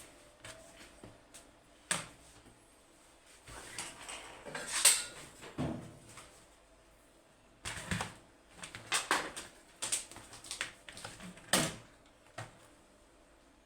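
Irregular clicks, knocks and short scrapes of small objects being handled on a work surface, with sharp knocks about two, eight and eleven and a half seconds in and the loudest scrape around five seconds in.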